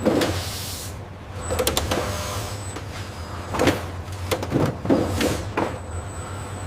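Steady low machine hum with scattered knocks, clatters and sliding noises, typical of a packaging or loading line.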